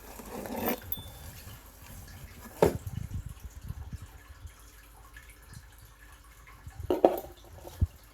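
Handling noises: soft rustling and small taps, with a few short knocks about two and a half seconds in and near the end, as a compartment of a homemade advent calendar is opened.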